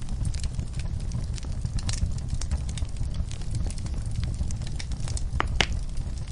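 Wood fire in a fireplace crackling, with scattered sharp pops over a steady low rumble of the flames; the loudest snap comes about five and a half seconds in.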